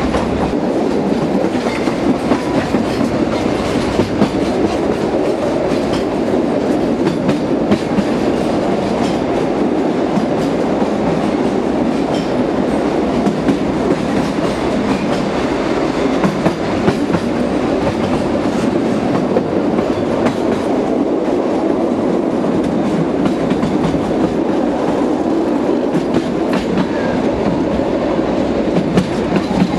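A narrow-gauge (760 mm) train running steadily along the track: a constant rumble of the wheels and cars, with frequent light clicks over the rail joints.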